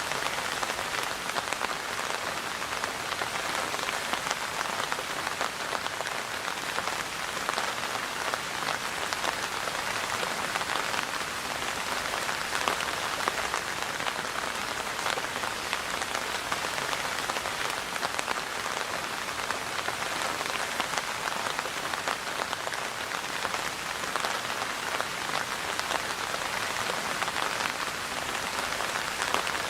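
Steady rain falling and pattering on surfaces, an even hiss dotted with countless small drop impacts.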